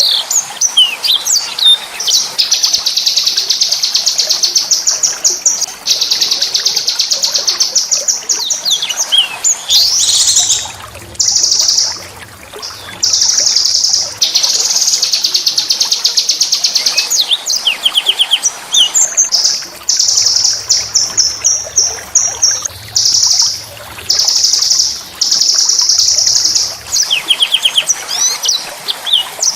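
Small songbird singing fast, high-pitched rolling trills. The trills come in repeated bursts of one to three seconds each, broken by short sweeping chirps.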